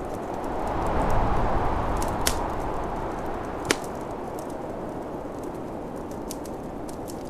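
Snowstorm wind rushing steadily and swelling in a gust about a second in, over a wood fire crackling with scattered pops, two of them sharp and loud.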